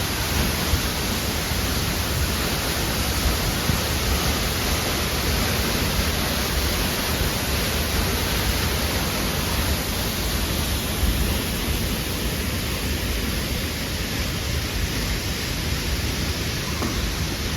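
Waterfall, water falling and rushing in a loud, steady roar with no let-up.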